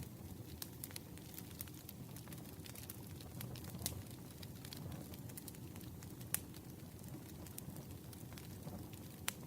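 Campfire crackling: a steady low rumble of burning wood with frequent sharp pops and snaps, one louder pop a little after six seconds in.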